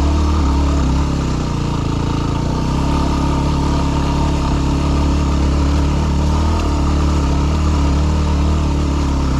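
Yamaha WR250R's single-cylinder four-stroke engine running steadily as the dual-sport bike rides up a mountain trail. The revs sag slightly about a second in, then pick back up and hold.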